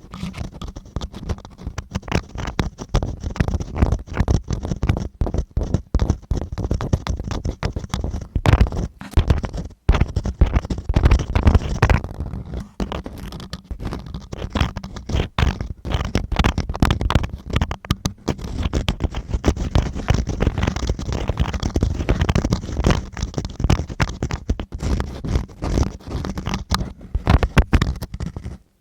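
Ear-cleaning ASMR: a tool scraping and rubbing right against the recorder's microphone, a dense run of rapid, irregular scratches with a heavy, boomy low end and a brief pause about ten seconds in.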